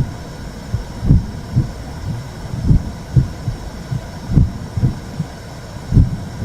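Womb sound for soothing a baby: slow, low heartbeat thumps in lub-dub pairs, one pair about every one and a half seconds, over a steady low whooshing noise.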